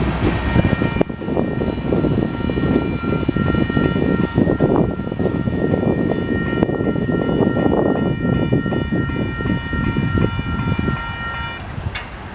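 Freight cars rolling slowly past on jointed track: a steady low rumble with irregular clanks and knocks, and a steady high whine over it from about a second in until shortly before the end. The sound fades a little at the end.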